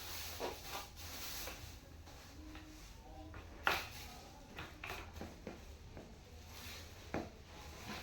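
Scattered light clicks, knocks and rubbing from office chair parts being handled and fitted together, with one sharper knock about three and a half seconds in.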